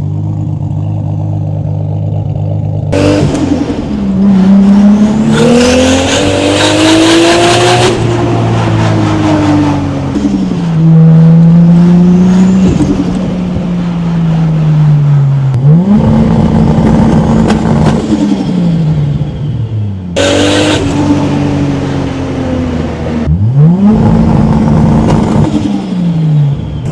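Toyota MK4 Supra's 2JZ-GTE inline-six with a big single turbo, idling and then revved hard about five times, twice held at high revs for two to three seconds before dropping back. Really loud.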